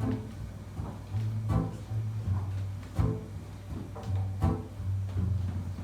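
Live band music with no singing: an instrumental passage with a deep sustained bass line under guitar strums that land about every second and a half.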